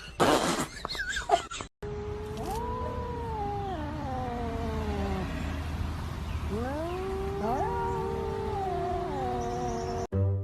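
Cat caterwauling: two long, drawn-out yowls that rise, waver and slide down in pitch, over a steady low hum. A short, loud, hissing burst comes before them.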